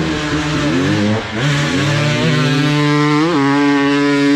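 Dirt bike engine accelerating, its pitch climbing over the first few seconds, with a brief dip and jump about three seconds in, then holding a steady high note.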